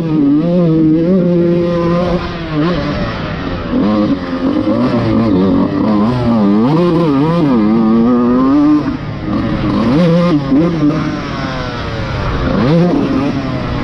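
Motocross dirt bike engine being ridden hard, revving up and dropping again and again as the throttle opens and closes and the gears change.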